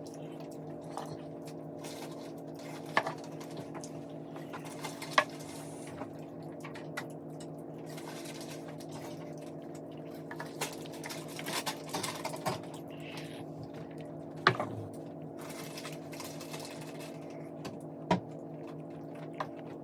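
Close-miked eating sounds: scattered sharp clicks and wet mouth noises from chewing a meat and rice meal, with a few louder clicks, over a steady low hum.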